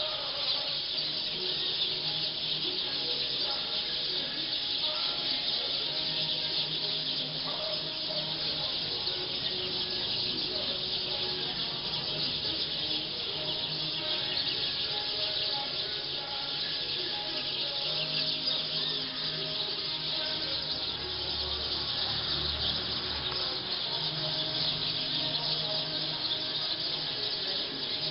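Large flock of black birds calling together at their roost tree: a dense, unbroken chorus of many overlapping high chirps.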